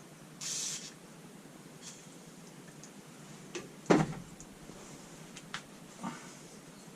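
A short hiss of WD-40 aerosol spray about half a second in, then scattered clicks and one loud clunk of a tool or part being handled about four seconds in.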